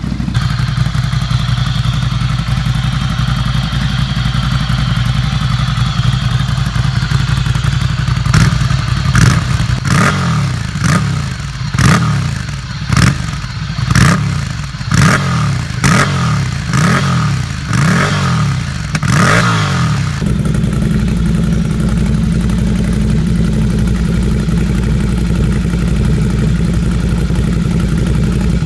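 Ducati Scrambler 800's air-cooled L-twin engine idling, then blipped about a dozen times in quick succession, roughly once a second, each rev rising sharply and falling back, before it settles back to a steady idle.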